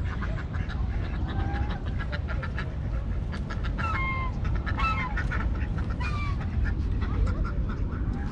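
Ducks quacking: a run of short calls, with a few louder, drawn-out calls around the middle. A steady low rumble sits underneath.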